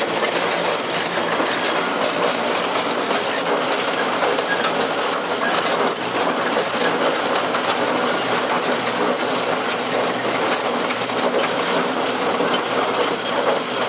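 1915 Case 65 hp steam traction engine running steadily, a continuous mechanical clatter of the engine and its gearing.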